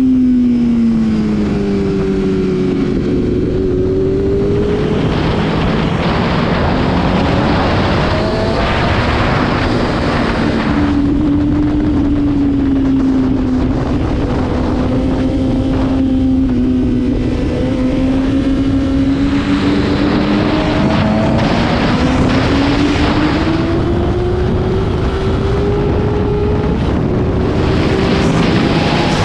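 Motorcycle engine at track speed, its note falling, then climbing and falling again several times as it slows and accelerates, over heavy wind rush.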